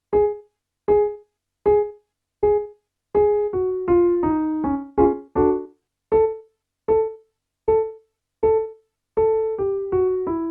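Piano playing a vocal warmup pattern: four short detached notes on one pitch, then a five-note scale stepping down, closed by a short chord. The pattern then starts again a step higher.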